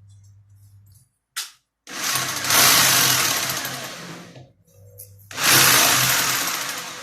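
Electric power tool running in two loud bursts with a low motor hum under the noise. Each burst starts sharply and fades off, the first about two and a half seconds long and the second starting just after it ends.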